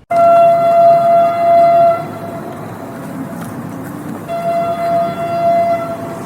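Train horn sounding two long, loud blasts over the steady rumble of the moving train.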